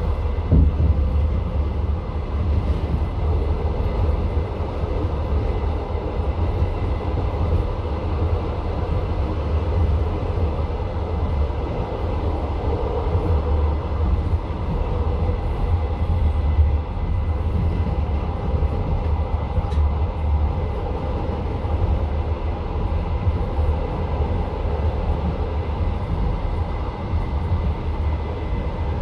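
Passenger train coach running along the track, heard from inside the carriage: a steady low rumble of the wheels on the rails, with faint steady tones above it.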